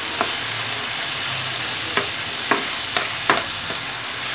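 Boiled split urad (mash) dal frying in hot spiced oil in a frying pan: a steady sizzle while it is stirred, with about five sharp clicks and scrapes of the stirring utensil against the pan.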